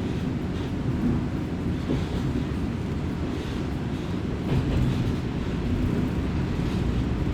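Kominato Railway diesel railcar running along the line, heard from inside the car: a steady low rumble of engine and wheels on the rails, with a few faint clicks.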